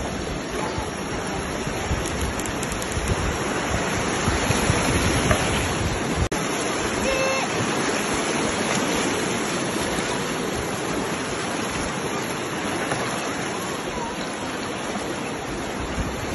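Fast-flowing river water rushing steadily, the sound of rapids heard from a bamboo raft.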